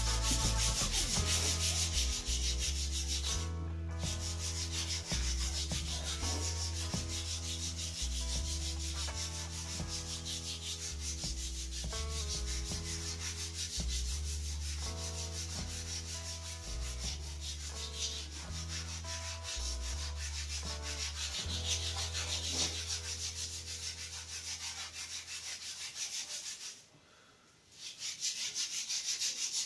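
Sandpaper rubbing back and forth along a wooden snooker cue shaft in rapid strokes, stopping briefly near the end before starting again. Background music plays under it for most of the stretch.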